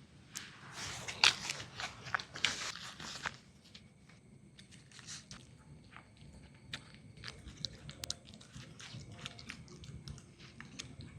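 Close, crisp crunching and chewing, dense and loudest in the first three seconds, then softer, scattered crunches.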